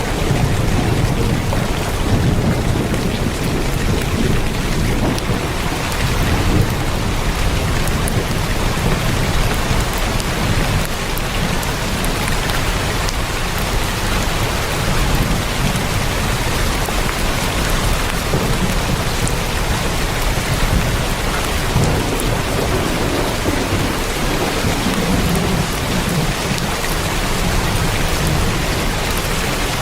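Heavy rain drumming steadily on a tin roof, with a low rumble swelling and fading underneath.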